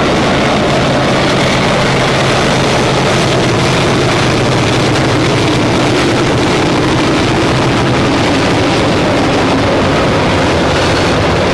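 Santa Fe diesel locomotives leading a freight train, running loud and steady: a deep engine hum under a dense wash of rumble and noise.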